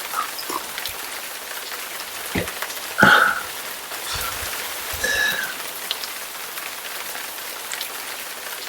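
Rain falling steadily, with scattered drips tapping close by and one sharper, louder tap about three seconds in.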